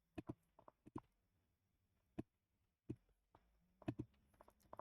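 Faint, scattered clicks of a computer mouse and keyboard, about eight spread irregularly, against near silence.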